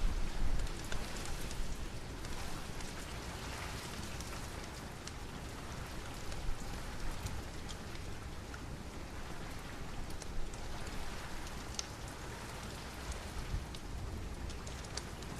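Steady rain falling, an even hiss dotted with scattered sharp drop ticks. A low rumble stands out in the first second.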